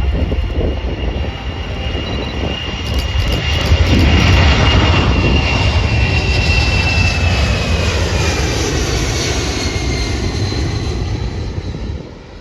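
Fixed-wing aircraft flying past, its engine noise building to its loudest about four seconds in, with a high whine that slowly falls in pitch as it passes and recedes. The sound drops off suddenly near the end.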